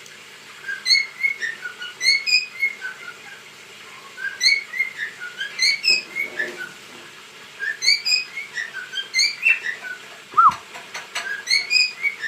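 Cockatiel whistling, a short phrase of quick up-and-down notes repeated over and over with brief pauses between.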